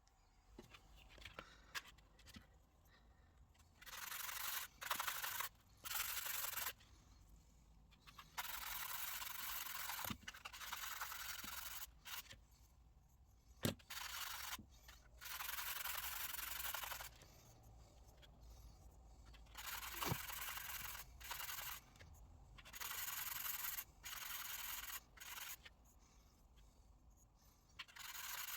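Hand scraping strokes on a small part, each half a second to two seconds long with short pauses between them, and a few sharp clicks in between.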